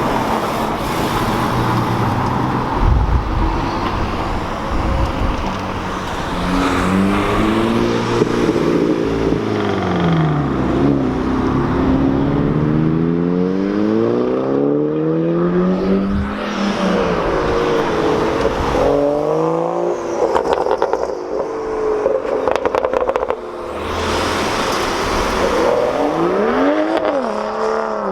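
Car engines revving and accelerating, the engine note rising and falling several times over continuous background noise.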